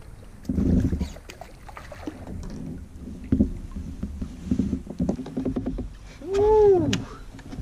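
A fishing reel being cranked and a hooked bass landed beside a kayak, with scattered clicks and knocks of handling and water. A little after six seconds in comes a man's drawn-out wordless exclamation that rises and falls in pitch, the loudest sound.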